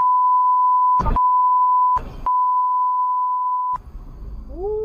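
Steady 1 kHz censor bleep, a pure beep tone lasting almost four seconds and broken by two brief clicks about one and two seconds in. It cuts off sharply, leaving quieter background noise and a short rising-then-falling pitched sound near the end.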